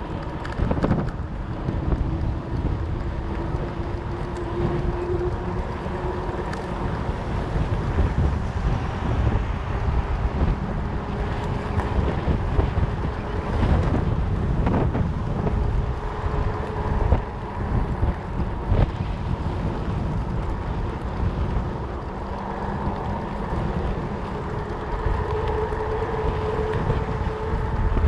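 Wind buffeting the microphone while a fat bike is ridden, a gusty low rumble, with faint humming tones underneath that drift slowly up and down in pitch.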